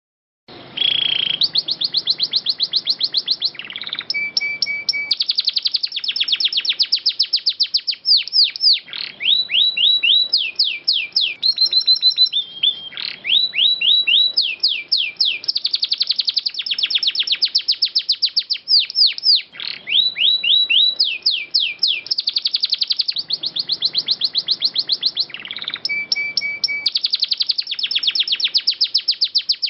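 Domestic canary singing a long, unbroken song of rapid rolling trills and repeated high notes, changing from one trill phrase to the next; it starts about half a second in.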